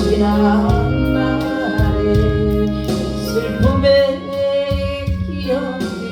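A gospel song sung solo over an instrumental accompaniment of sustained chords, the voice holding long wavering notes.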